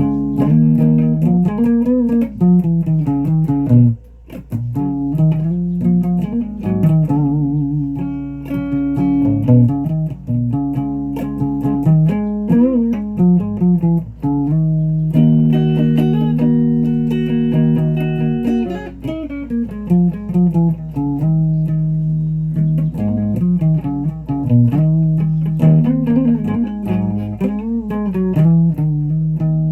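Guitar playing: plucked notes, some held and bent, with a brief pause about four seconds in.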